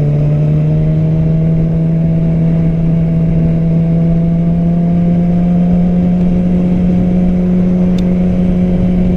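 Yamaha R6 inline-four engine running steadily under way, its pitch rising slowly and evenly as the bike gradually gains speed.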